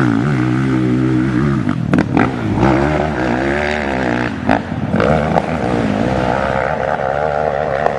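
Hill-climb motorcycle engine revving hard, its pitch rising and falling as the throttle opens and closes, with a few sharp cracks.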